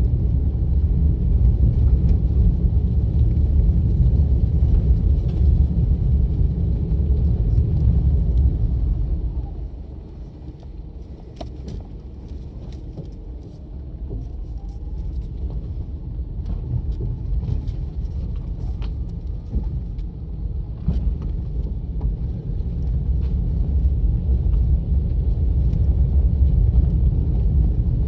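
Low road and engine rumble of a car driving. It drops off sharply about ten seconds in, then builds back up gradually, with a few faint scattered clicks while it is quieter.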